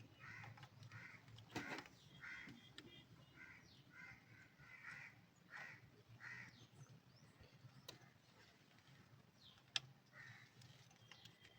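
Crows cawing repeatedly and faintly, a string of short harsh calls, with a few sharp clicks of metal tools in between.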